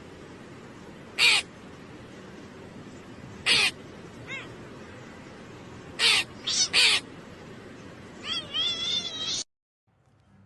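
A cat meowing in short, loud calls every couple of seconds, with a quicker run of calls near the end that cuts off suddenly.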